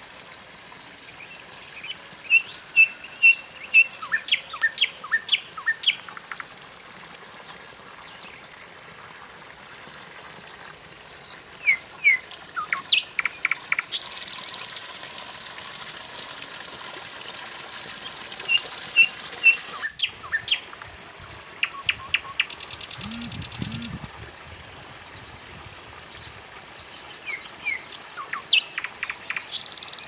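Small birds chirping in quick repeated runs over the steady rush of water pouring from a bamboo spout into a shallow stream. A few high, buzzy bursts about a second long come in between the chirping runs.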